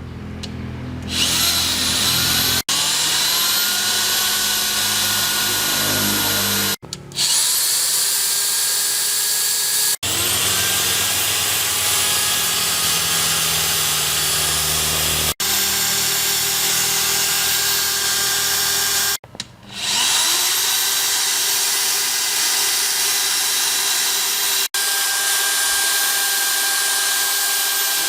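A handheld electric power tool running at high speed, its pitch rising as it spins up. It is switched off and straight back on twice, then runs steadily.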